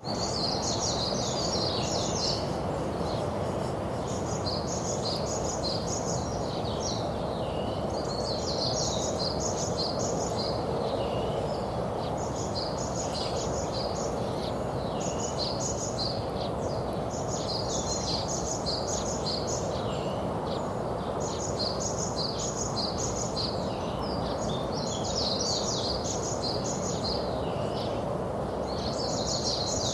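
A songbird singing a short, high, quick phrase over and over, about one every two to three seconds, over a steady low background hum of outdoor noise.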